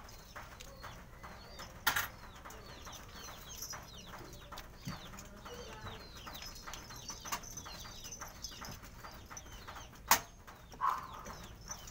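Birds chirping: many short calls that fall in pitch, several a second, with two sharp knocks, one about two seconds in and one near the end.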